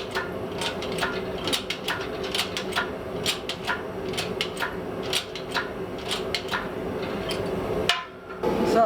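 Hand hammer striking a hot 1045 steel blank on an anvil, about two to three blows a second, doing the primary set-down for a hardy tool, over a steady hum. The blows stop about eight seconds in.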